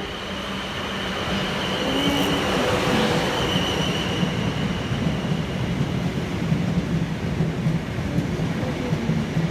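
Passenger train pulling into the station platform, its rumble growing louder over the first few seconds, with a thin high whine for a couple of seconds about two to four seconds in.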